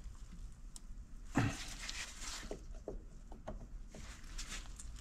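Metal tools and parts clicking and scraping against a seized governor as a part is worked loose, with a dull knock and a short scrape about one and a half seconds in.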